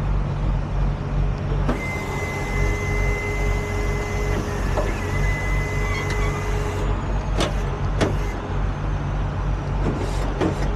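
Heavy tow truck's engine idling steadily. From about two seconds in, a steady whining hiss from the truck's equipment runs for about five seconds, then stops. A few sharp clicks follow.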